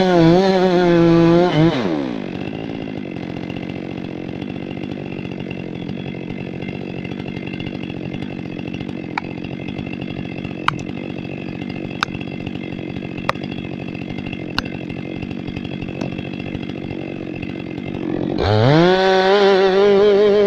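Chainsaw running at full throttle, dropping to idle about two seconds in, then revving back up to full speed near the end. While it idles, a series of sharp knocks comes about every second and a half.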